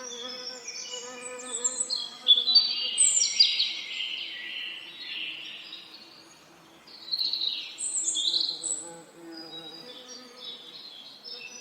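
Bees buzzing in a steady low hum that fades midway and returns near the end, under songbirds singing in quick chirps and trills, loudest in two spells of song.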